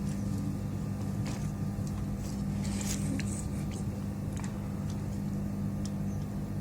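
Steady low electrical hum with scattered light clicks and taps, as of small parts and tools being handled on a workbench.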